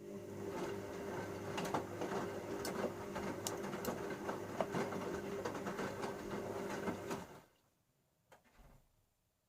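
Bauknecht Super Eco 6413 washing machine's motor turning the drum to tumble the laundry during the wash, a steady hum with rattling and clicking. It stops about seven seconds in, followed by a couple of faint knocks.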